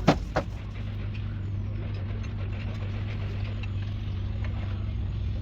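An engine idling with a steady low hum, with two sharp knocks just after the start and a few faint taps later.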